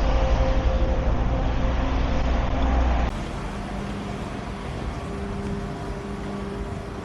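Busy city street background with a heavy low rumble from traffic. About three seconds in it cuts abruptly to quieter surroundings with a steady low hum.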